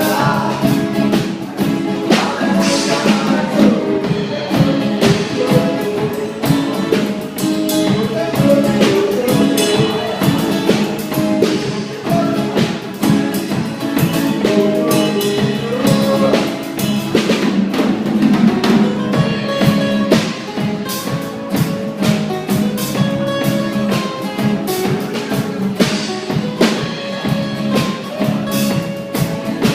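Small live band playing an instrumental passage without singing: sustained pitched instrument notes over a drum kit and percussion keeping a steady beat.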